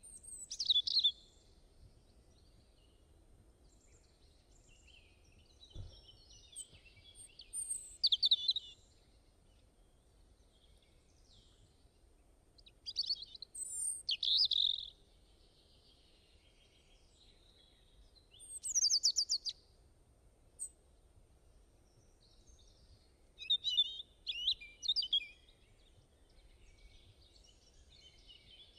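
Songbird singing short phrases of high chirps and trills, repeated every five or six seconds with quiet gaps between, over a faint steady background hiss.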